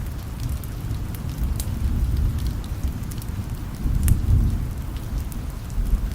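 Steady rain with low rumbles of distant thunder swelling about two seconds in and again around four seconds, and scattered sharp crackles from a wood fire.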